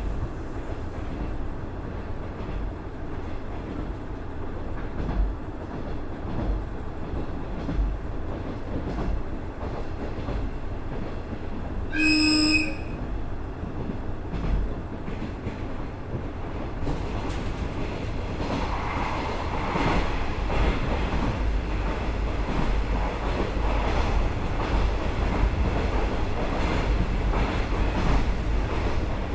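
KiHa 110 series diesel railcar with a Cummins DMF14HZA engine running along the line, with steady engine and wheel-on-rail noise. About 12 seconds in the train's horn gives one short blast, and from about 17 seconds the running noise grows louder and rougher.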